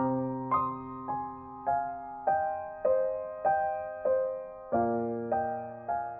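Instrumental background music: a soft keyboard melody on a piano-like sound, one note about every half second, each ringing and fading, over a low bass note struck at the start and again late on.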